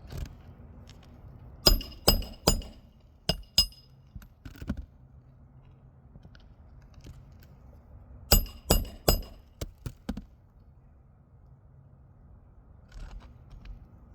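Hammer driving roofing nails into asphalt shingles: two runs of sharp, ringing blows, each a few hard strikes followed by lighter taps, with a few faint taps near the end.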